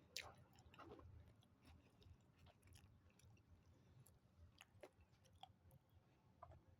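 Faint chewing of a mouthful of White Castle cheeseburger, with scattered small wet mouth clicks and a sharper smack just after the start.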